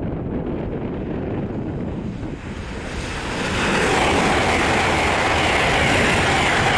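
LNER Azuma high-speed train approaching and rushing past. Its noise swells about three seconds in and stays loud, with wind buffeting the microphone throughout.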